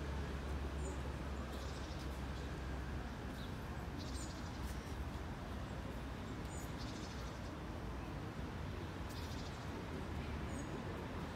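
Small birds chirping now and then, short high chirps and brief buzzy trills, over a steady low background rumble.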